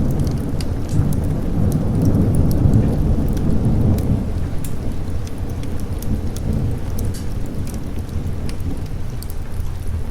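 Thunder rumbling low over steady rain. The rumble is heaviest in the first few seconds and dies away through the second half, with scattered sharp clicks throughout.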